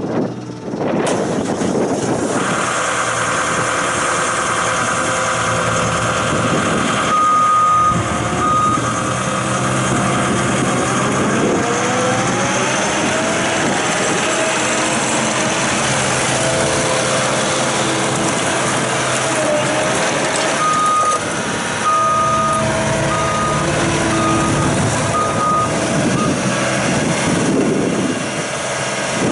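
CAT 249D compact track loader's diesel engine running, with a rise in pitch about a third of the way in. Its reversing alarm beeps in two short runs, one a quarter of the way in and a longer one after the middle.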